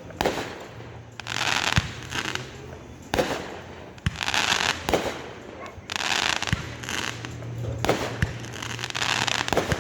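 Fireworks going off: repeated bursts of crackling hiss, each lasting under a second and coming about every second and a half, with sharp pops and bangs scattered between them.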